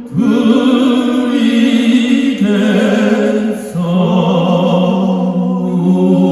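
Male vocal quartet singing long held notes in harmony with vibrato, over acoustic guitar accompaniment; the held chord changes to a new one about four seconds in.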